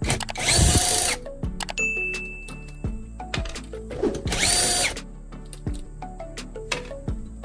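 A power tool runs in two short bursts of about a second each, the second about four seconds after the first, over background music.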